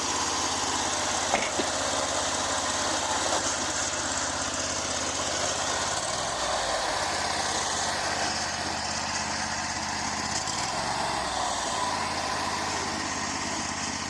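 Predator 670 V-twin engine of a small home-built truck running steadily, its note shifting a little around the middle.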